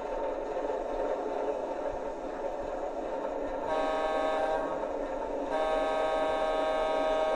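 O-gauge model train running on its track with a steady mechanical hum, as the MTH Canton Railroad diesel switcher's sound system blows its horn twice about halfway in: a short blast, then a longer one of about two seconds.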